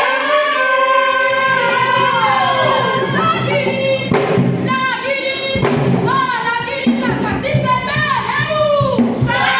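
Group of voices singing a melody, with low instrumental backing coming in about a second in.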